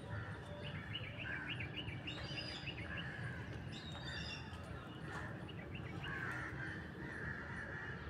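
Several birds chirping and calling, short notes repeated in quick runs throughout, over a steady low rumble.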